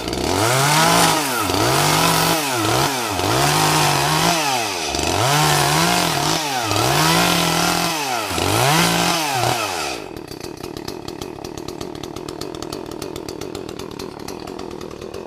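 Chainsaw engine running hard, its pitch rising and dropping about every second and a half as it revs and loads in the cut. About ten seconds in it falls back to a much quieter idle.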